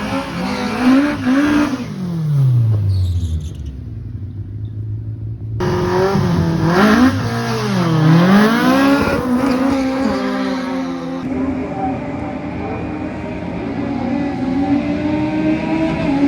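Drag-racing car engines revving and accelerating hard, the pitch climbing and falling with throttle and gear changes. The sound is cut together from several short clips, and a steadier, slowly rising engine note runs through the last few seconds.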